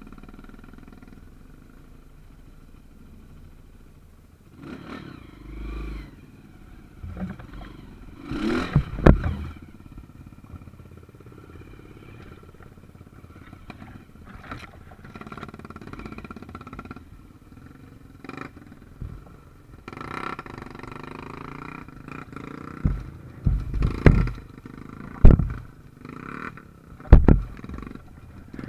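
Small trail motorcycle engine running and revving in rises and falls over rough ground, with a run of loud knocks and thumps in the last few seconds.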